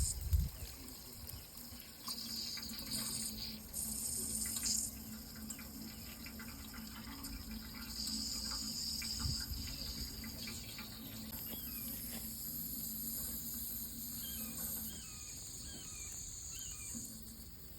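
Water running steadily, a hiss whose splashing texture keeps shifting, over a low steady hum. A low thump comes at the very start, and faint high chirps are heard toward the middle.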